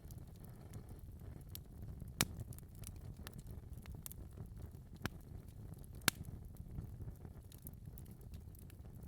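Wood fire crackling in a fireplace: scattered sharp pops and snaps over a low steady rumble, with two louder snaps about two and six seconds in.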